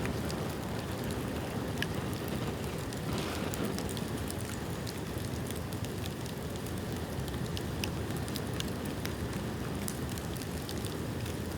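Bonfire of rain-wet bamboo burning: a steady low rush of flame with scattered sharp crackles and pops throughout.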